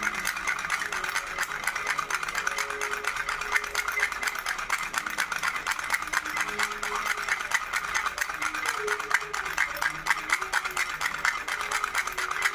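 A baby rattle being shaken continuously, giving a fast, even patter of small clicks. Faint held tones sound underneath.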